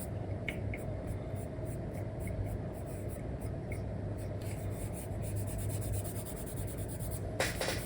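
Stylus nib scratching across a paper-like screen film on a tablet in many quick, short drawing strokes, with a louder, longer stroke near the end, over a steady low hum.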